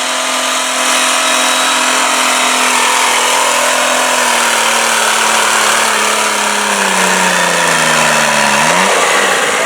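Diesel garden tractor engine running hard under load as it pulls the sled, its pitch sinking steadily as the load bogs it down, then rising sharply near the end.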